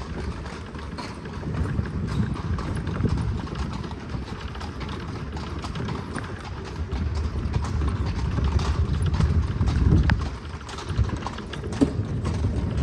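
Hooves of a carriage horse clip-clopping at a walk as it pulls the carriage along the street, over a steady low rumble.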